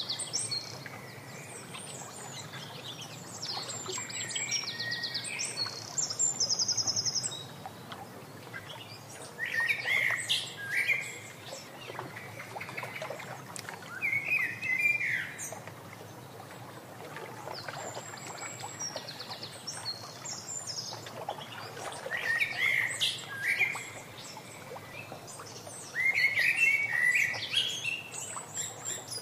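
Songbirds singing: bouts of quick high chirps and trills that come and go every few seconds, over a steady background hiss.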